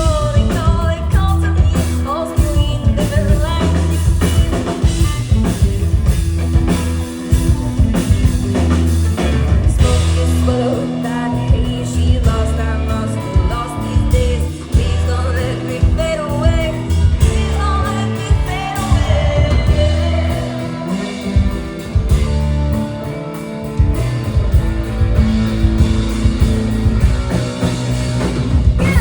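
A live rock band playing an instrumental passage: drum kit and bass keep a steady beat under guitar, with a wavering lead melody over the top.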